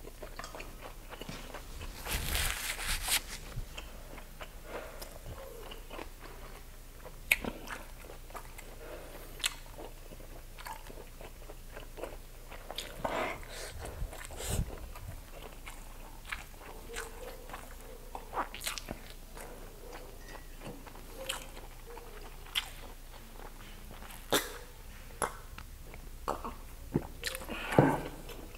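A person chewing and biting grilled skewered street food, mouth close to the microphone: wet chewing with scattered lip smacks and mouth clicks, and a louder crunchy stretch about two seconds in.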